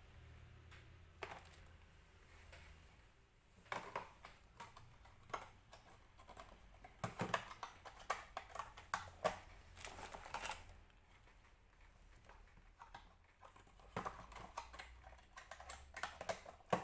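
Small plastic toy pieces clicking and tapping against each other as they are handled and put away, in irregular clusters of light clicks.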